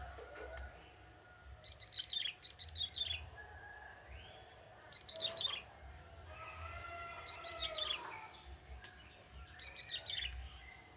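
Male prinia (ciblek) singing in four bursts of rapid high chirps, each chirp falling in pitch, with fainter, lower held whistles between the bursts.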